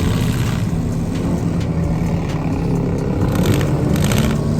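Several demolition derby cars' engines running and revving together, loud and steady, with some brief metallic clattering near the end.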